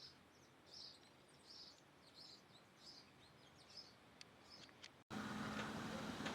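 A small bird repeating a faint, short, high chirp about every 0.8 seconds, with a few sharp ticks near the end. About five seconds in, it cuts abruptly to a louder steady hiss with a low hum.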